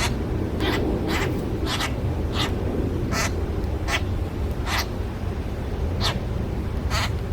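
Birds giving short, sharp calls about once or twice a second, over a steady low rumble.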